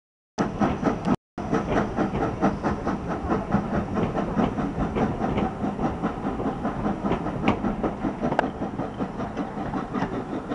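Steam train on the move: a fast, even rhythm of beats from the locomotive and its wheels on the rails, with two sharper metallic clanks late on. The sound cuts out completely twice in the first second and a half.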